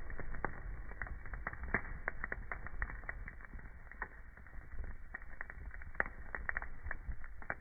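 Burning wood fire crackling: irregular snaps and pops over a low, steady rumble.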